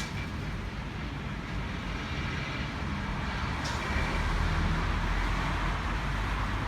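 V-set double-deck electric train standing at the platform, its onboard equipment giving a steady rumble and hiss. A single click comes a little before the middle, and the low rumble grows louder from about four seconds in.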